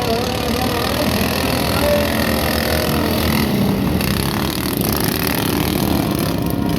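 Engines of a field of racing lawn mowers running together as a heat gets under way, a loud, steady engine noise.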